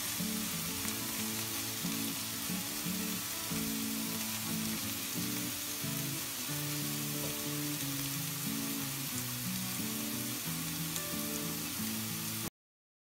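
Onions and sliced peppers sizzling in hot oil in a frying pan as they are stirred with a wooden spoon, over background music. All sound cuts off suddenly near the end.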